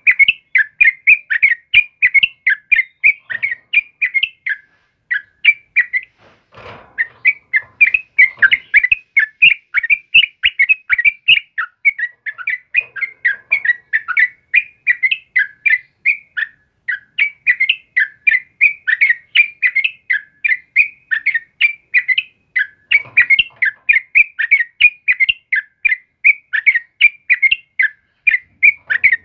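Yellow-vented bulbul (trucukan) singing continuously, a fast run of short chirpy notes with a brief pause about five seconds in.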